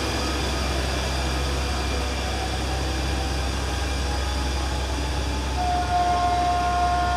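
A train's engine running at a station with a steady low rumble. Near the end a high steady tone sounds for about two seconds, louder than the rumble.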